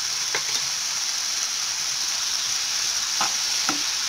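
Malabar spinach and potatoes sizzling in oil in a nonstick frying pan, with a steady hiss, while a spatula stirs them and knocks against the pan a few times.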